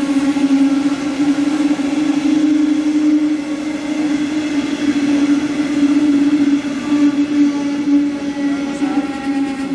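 Metronom double-deck regional train rolling past as it pulls into the station, with a loud, steady droning tone over the rumble of the coaches.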